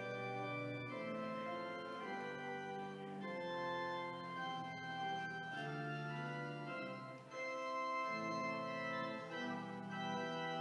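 Organ music: sustained full chords that change every second or two, with a short break in the sound about seven seconds in.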